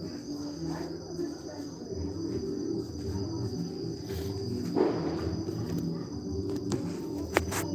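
Crickets trilling steadily in two high, even tones, over a low background murmur, with a short rush of noise about five seconds in and a sharp click near the end.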